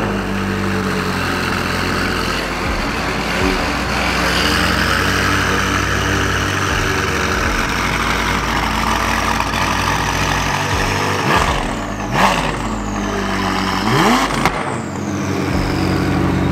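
McLaren twin-turbo V8 idling just after start-up through an aftermarket titanium exhaust with downpipes and a tune, with three quick rev blips near the end.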